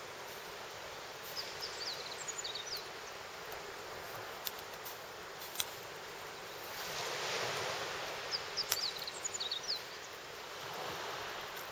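Outdoor bonfire crackling, with a few sharp pops, over a steady rushing background that swells twice. Small birds chirp in two short clusters of quick high notes.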